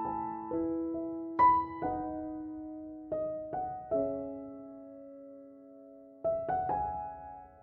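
Slow, gentle solo piano background music: single notes and soft chords struck and left to ring and fade, with a long fading chord in the middle before a few new notes near the end.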